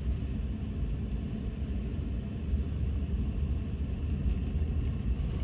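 Car driving along a road: steady low rumble of the engine and tyres.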